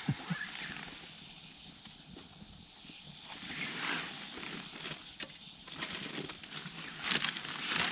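Campfire crackling with scattered small clicks over a steady hiss, and a swell of rustling about four seconds in as items are handled by the fire.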